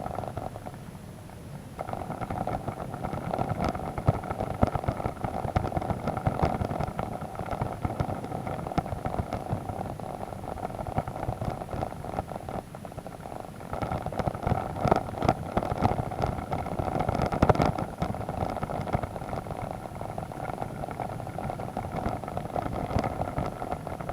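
Motorcycle engine running at a steady note on a muddy dirt road, picking up about two seconds in and pulling harder for a few seconds past the middle, with many short clicks and knocks from the bike and tyres on the rough surface.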